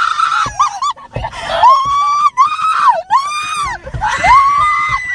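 People screaming in fright: a run of long, high-pitched screams one after another, with two voices overlapping near the end.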